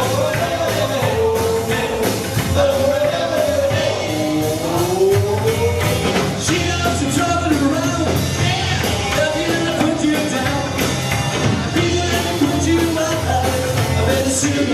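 A band playing a rock-and-roll number, with a sung melody over a steady bass line and drum beat.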